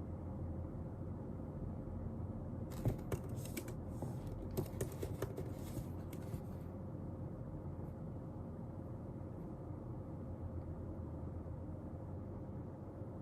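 A burst of computer-keyboard typing, quick clicking keystrokes, from about three seconds in to about six and a half seconds in, over steady low room noise.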